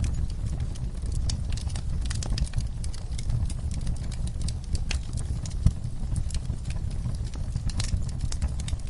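Wood fire crackling in a fireplace, with frequent sharp pops, one loud pop a little past halfway, over a steady deep rumble.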